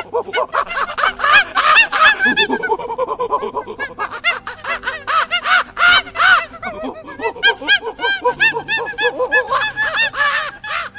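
A flock of birds calling: many short rising-and-falling calls, several a second, overlapping one another.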